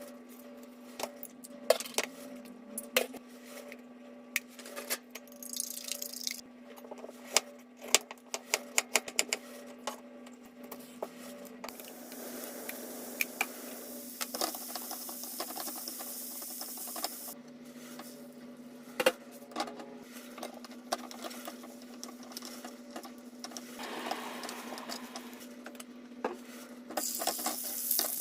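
Kitchen food-prep noises: scattered clicks and knocks of utensils and dishes over a steady low hum, with a stretch of hissing in the middle and a short burst of hissing near the end.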